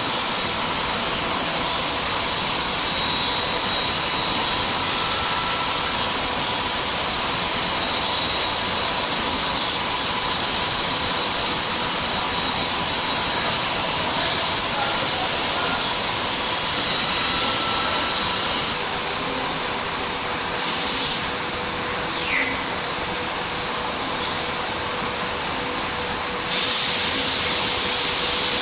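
IMA BIMA Gx60 wood CNC machining centre running with a steady high-pitched whine over a hiss. The whine cuts out about two-thirds of the way through, returns for a moment, and comes back near the end.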